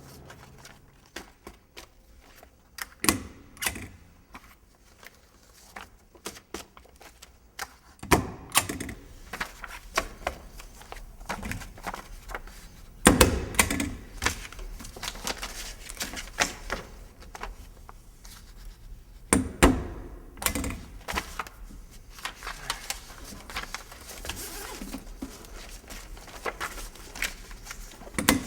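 Irregular clicks and knocks, with a few louder thuds spread through.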